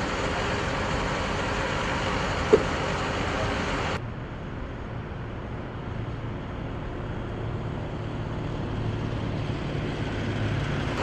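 Steady rumbling background noise of machinery or traffic, with a short sharp click about two and a half seconds in. About four seconds in the sound changes abruptly, becoming duller and quieter, with a low hum.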